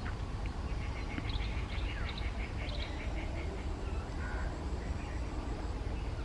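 Birds calling: a run of quick, high chirps about one to three seconds in and a short whistled note near four seconds, over a steady low rumble.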